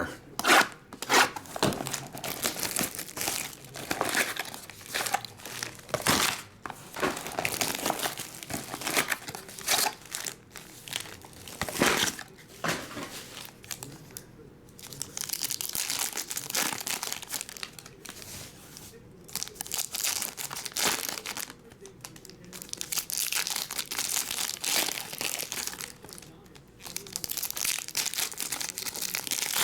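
Wrappers from trading-card packs being torn open and crinkled by hand, a run of irregular crackling and tearing noises with short pauses.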